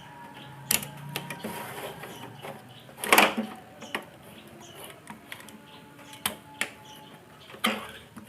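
Scattered clicks and knocks from handling a TV set's plastic casing and chassis during opening and repair, a sharper knock about three seconds in, over a faint low hum.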